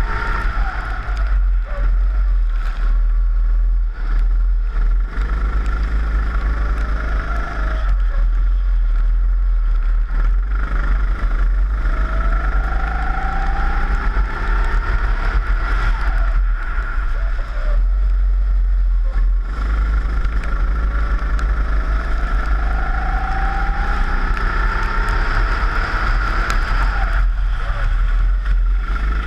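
Four-stroke rental kart engine heard onboard, its pitch climbing steadily on each straight and falling away as the driver lifts for corners, several times over, over a constant heavy low rumble.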